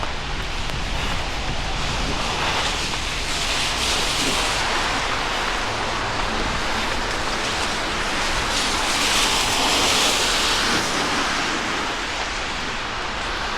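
Rain on a wet city street: a steady hiss that swells twice, about three seconds in and again past the middle.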